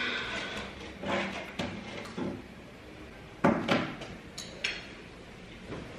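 A few scattered knocks and bumps, the loudest about three and a half seconds in, with two lighter ticks shortly after.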